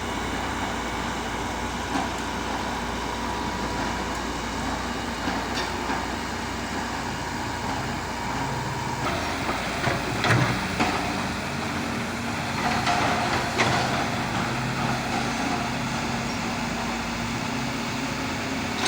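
Heavy diesel construction machinery running steadily, with a few short knocks or clanks, the loudest about halfway through and a cluster a few seconds after.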